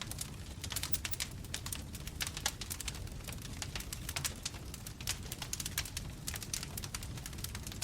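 Bonfire crackling: dense, irregular snaps and pops of burning wood over a low, steady rumble of the flames.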